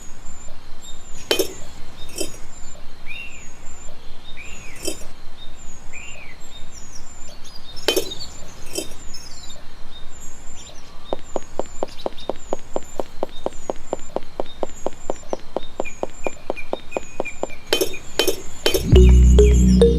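Sharp clicks and clinks at irregular intervals under repeated short high chirps. About halfway through comes an even run of ticks, some four or five a second. Loud background music starts just before the end.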